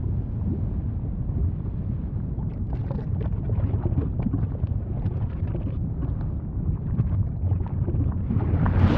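Volcano rumbling deeply, with scattered crackles and pops through the middle, swelling near the end toward a louder eruptive rush.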